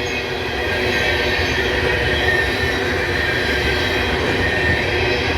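Freight train cars rolling steadily past on the track with a continuous rumble, over a faint high wheel squeal.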